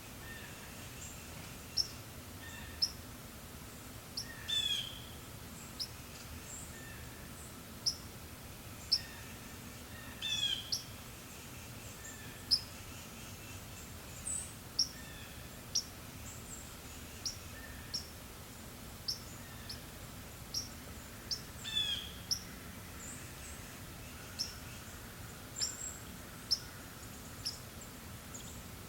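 Forest birds calling: short high chirps about once a second, and three times a longer trill sweeping down in pitch, over a faint steady breeze.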